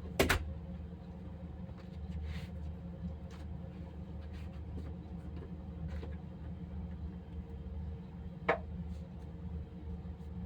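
Chicken pieces shallow-frying in a pan with a little oil, crackling faintly over a steady low hum. Two sharp knocks, one right at the start and one about eight seconds in, typical of a utensil striking the pan.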